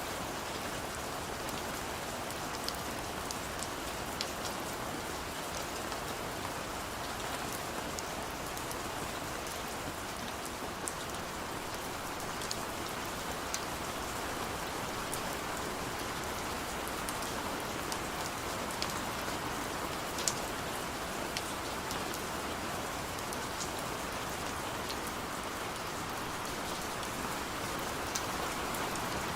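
Heavy rain falling steadily, a dense even hiss with scattered sharp ticks of individual drops striking a surface.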